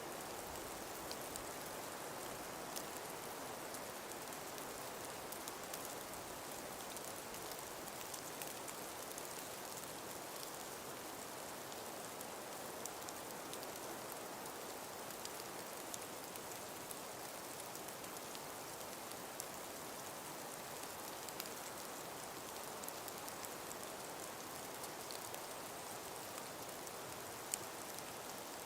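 Calm winter breeze blowing steadily through a frost- and ice-covered forest as an even hiss, with many faint, scattered ticks.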